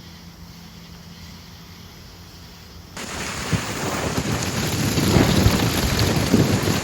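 Low steady hum, then about three seconds in a sudden rush of wind on the microphone with a low rumble, growing louder as the motorcycle gets under way.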